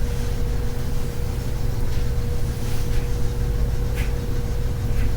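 A 52-inch Harbor Breeze Grace Bay ceiling fan running on low: a steady hum over a low rumble, with a few faint ticks.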